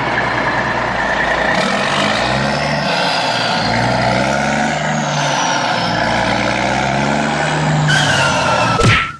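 Truck engine sound effect running steadily, its pitch rising and falling. It ends in a short falling squeal and cuts off suddenly near the end.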